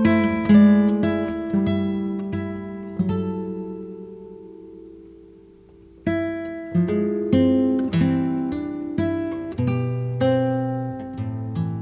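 Slow acoustic guitar music: single plucked notes and chords that ring out and decay. Around the middle the notes die away for a couple of seconds, then a new phrase begins.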